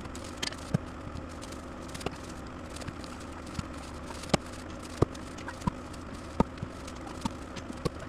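An engine idling steadily, with a dozen or so sharp clicks and knocks scattered irregularly over it.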